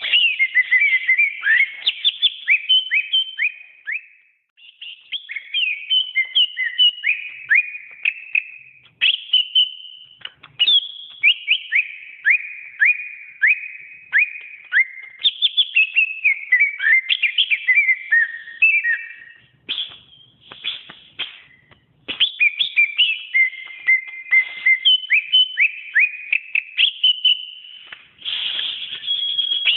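Cucak ijo (green leafbird) singing: rapid runs of sharp, clear whistled notes, many sliding quickly downward, delivered in long phrases with brief pauses between them.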